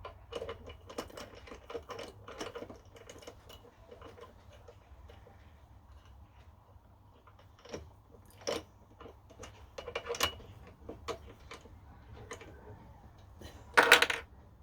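Small metal parts and hand tools clinking and clattering as they are handled, in irregular bursts of light taps and rattles. A louder single clunk comes near the end, over a faint low hum.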